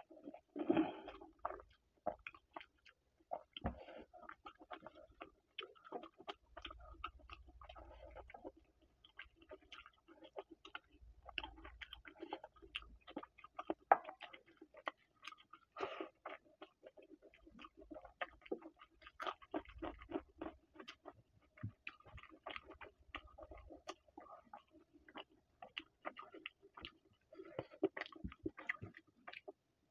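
Close-up wet chewing and lip-smacking of a man eating rice and chicken curry with his hand: an irregular stream of small wet clicks and squelches, with a few louder smacks.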